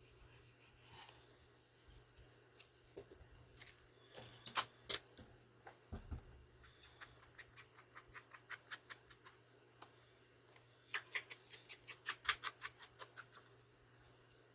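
Quiet hand crafting with paper: runs of light, quick clicks and scratches, about five a second, in the middle and again near the end, over a faint steady hum.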